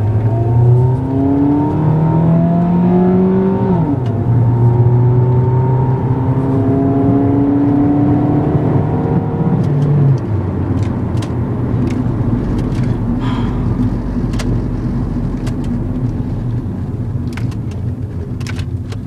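2003 Suzuki Aerio's four-cylinder engine accelerating from a stop: the pitch rises, drops suddenly about four seconds in and again about ten seconds in as the automatic transmission shifts up, then settles to a steadier run at cruising speed with road noise and a few light clicks.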